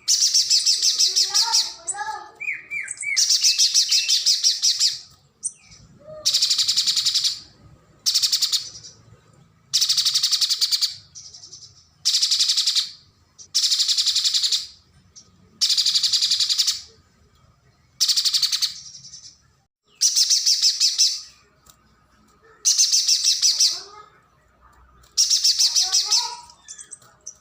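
Pijantung gunung (a mountain spiderhunter) singing: a rapid, high trill about a second long, repeated every two seconds or so. A few softer, lower chirps come between the trills.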